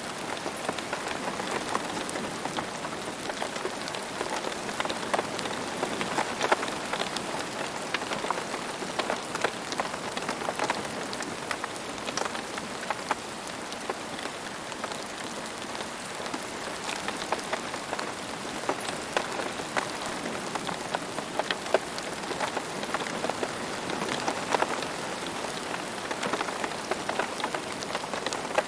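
Steady rain falling on a hard surface, a continuous hiss with many distinct drop splats and ticks scattered through it.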